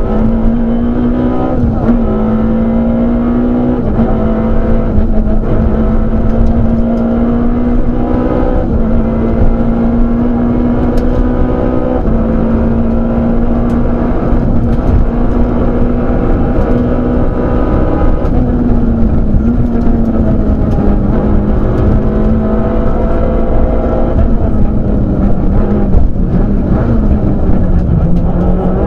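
Citroën Saxo rally car's engine held at high revs, heard from inside the cabin, with road and tyre noise underneath. The engine note stays near steady for long stretches and dips briefly a few times, near the start, about two-thirds of the way through and near the end.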